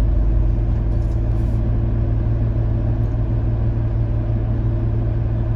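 Car engine idling steadily inside the stationary car's cabin: an even, low hum.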